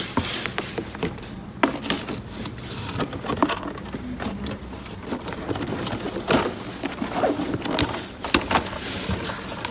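Small plastic toy pieces being handled and fitted together: irregular clicks, taps and light rattles, several a second.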